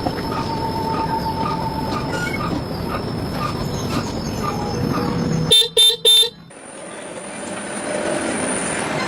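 Three short horn toots about five and a half seconds in, over a steady rumbling noise with faint regular ticking. After the toots the rumble drops away suddenly, then slowly comes back.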